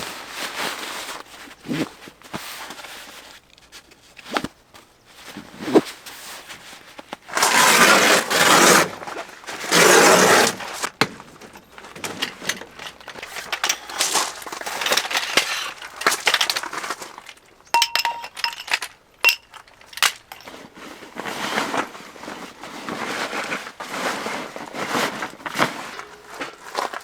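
Camping gear being handled: rustling, knocks and light clinks, with two louder rustling bursts about eight and ten seconds in and a short ringing clink later on.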